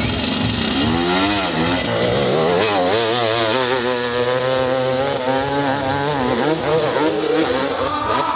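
Dirt bike engine revving hard, its pitch wobbling quickly up and down. It swells in about a second in and fades near the end.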